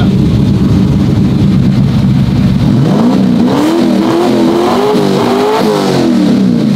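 1969 Camaro's twin-turbo 408 stroker V8 idling through a flat NASCAR-style exhaust, then revved hard about three seconds in, its pitch climbing and holding high before falling back near the end. It ran up to about 7,000 rpm, which the driver takes for over-revving with no rev limiter set.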